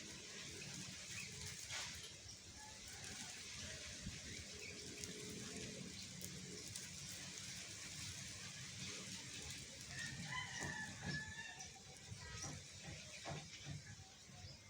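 Faint, soft twittering and scattered short chirps of a young caged songbird practising its first song, with a brief clearer chirping phrase about ten seconds in.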